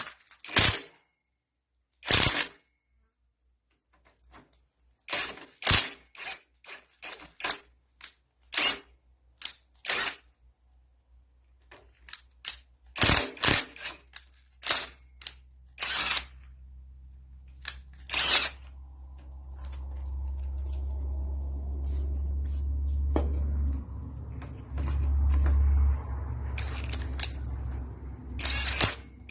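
Sharp metallic clicks and knocks of tools and parts being handled while a Lister SR3 engine is taken apart. About two-thirds of the way in a steady low hum with a rushing noise starts and runs on, briefly dipping once.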